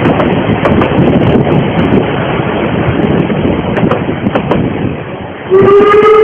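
Narrow-gauge steam train running: a rushing rumble with scattered clicks from the wheels. About five and a half seconds in, the steam locomotive's whistle starts, one steady tone held.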